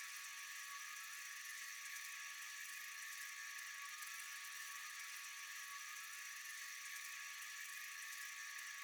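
Steady, high-pitched night insect chorus, an even hiss with a thin steady tone, unchanging throughout.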